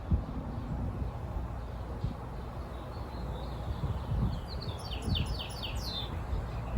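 A songbird sings one short, quick phrase of about eight downward-sweeping notes a little past halfway, over a low, uneven rumble.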